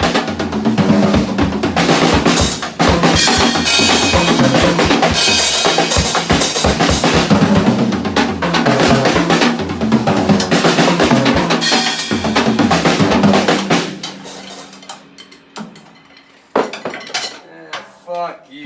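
Drum kit played hard and fast with sticks: dense snare and bass drum strokes with cymbal wash. It stops about 14 s in, and a few scattered hits follow.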